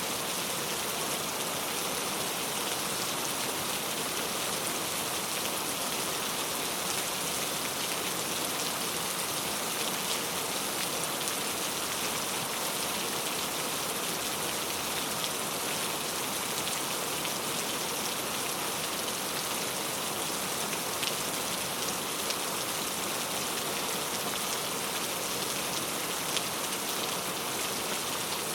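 Heavy rain falling on mango tree leaves: a steady, dense hiss of rain with many small drop patters throughout.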